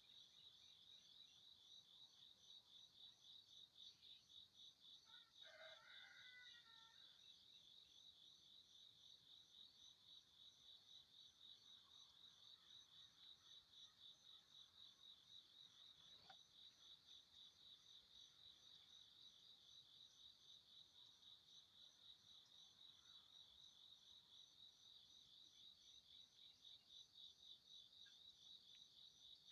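Faint, steady insect chirping, crickets or similar, in a rapid even pulse. A short bird call, perhaps a distant rooster, sounds once about six seconds in.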